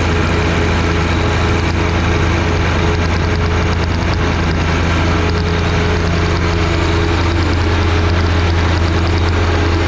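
John Deere 1025R sub-compact tractor's three-cylinder diesel engine running steadily at a constant speed, a low, even hum with no change in pitch.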